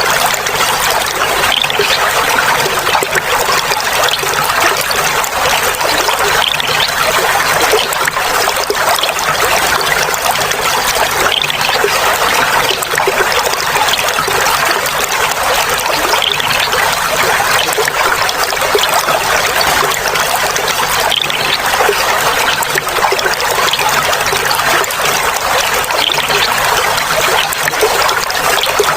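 Clear flowing water trickling and babbling steadily and without a break.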